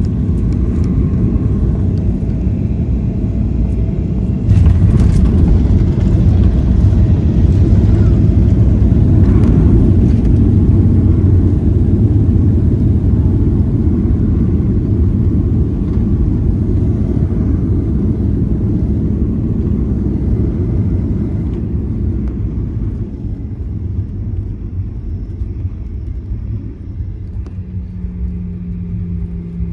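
Airliner cabin rumble during the landing rollout: a loud low roar jumps up sharply about four and a half seconds in, then slowly dies away as the aircraft slows. A steady low hum comes in near the end.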